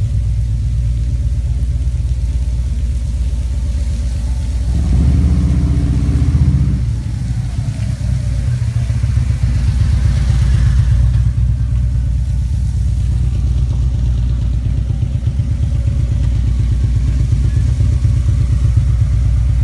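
A motor vehicle under way, with a steady low engine and road rumble. The engine note swells for a couple of seconds about five seconds in, as it accelerates.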